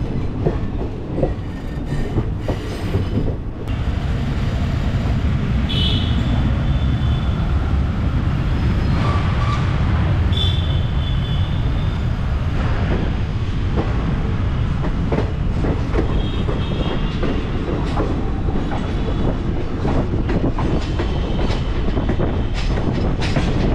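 Indian Railways express coaches running on the track: a steady rumble with clicks over the rail joints, growing a little louder in the first few seconds. Short high wheel squeals come four times.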